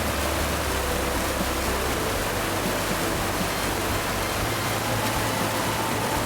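Steady roar of a waterfall, falling water rushing without a break.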